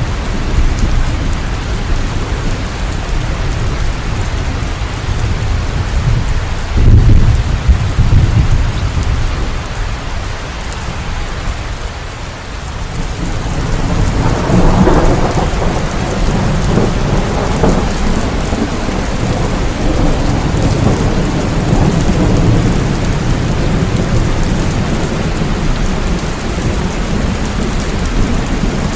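Steady rain with rolling thunder: a loud low rumble about seven seconds in, and another rumble building from about fourteen seconds and lingering under the rain.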